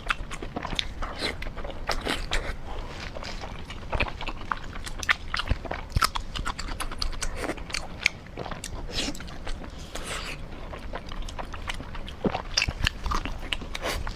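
Close-up mouth sounds of a person chewing braised pork: wet smacking and irregular clicks, several a second.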